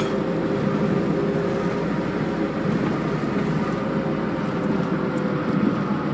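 Car cabin noise while driving on a highway: a steady drone of tyres and engine, with a low hum underneath.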